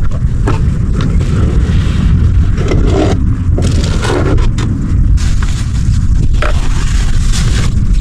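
Loud, steady low rumble of strong wind buffeting the microphone, with scattered scrapes and rustles over it.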